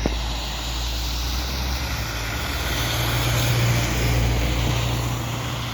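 City bus engine running with street traffic noise around it; the low drone swells about three seconds in and eases off near the end.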